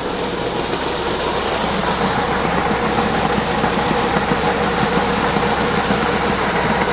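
Farm engine idling steadily, with no change in speed.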